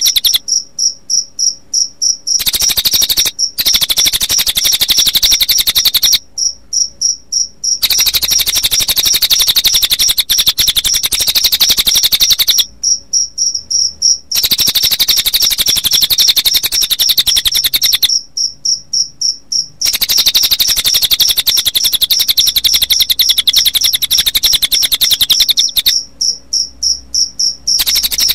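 Recorded mix of cililin bird song and cricket chirping. A loud, fast, high trill goes on steadily, broken about every six seconds by a short run of separate, evenly spaced high notes.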